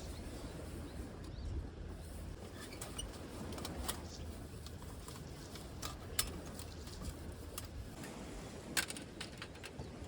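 Low wind rumble on the microphone, with scattered sharp clicks and snaps; three louder ones come about four, six and nine seconds in.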